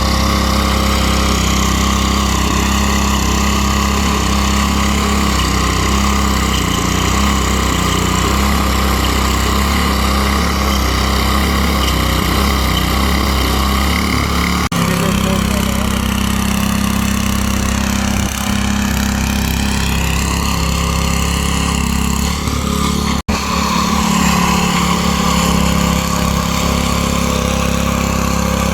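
Small gasoline engine running steadily, its pitch sagging and recovering about two-thirds of the way through as if under load, with two split-second dropouts.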